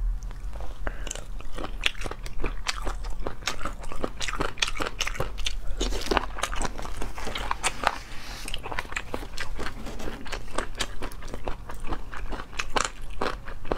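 Close-up chewing and biting of marinated chicken feet: a dense, uneven run of crunchy, wet clicks.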